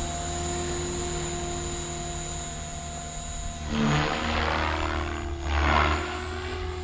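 Synergy 516 electric RC helicopter in flight: a steady motor whine and rotor hum, with two louder swells of rotor noise about four and about six seconds in.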